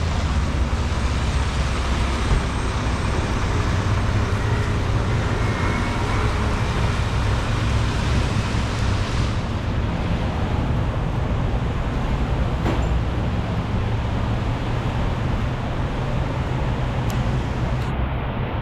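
Steady city street traffic: a continuous low rumble of cars and buses running past on wet streets.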